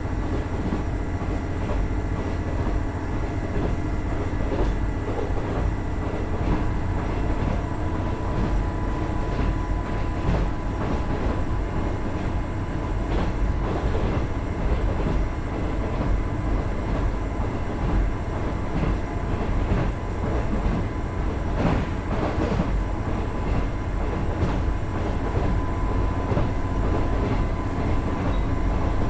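KiHa 110 series diesel railcar running along the line, its Cummins DMF14HZA diesel engine droning under steady wheel-on-rail rumble, with a few short knocks from the track.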